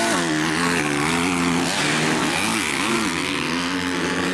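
250 cc racing motorcycle engines at full race, their pitch rising and falling as the riders work the throttle.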